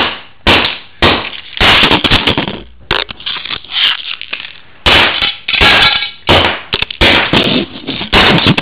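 Hammer repeatedly smashing a first-generation iPod Nano, loud blows about two a second with cracking and breaking of the casing.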